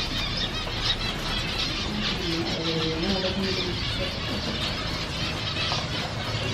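Dense, continuous chatter of many caged zebra finches calling at once: countless short, high chirps overlapping without a break.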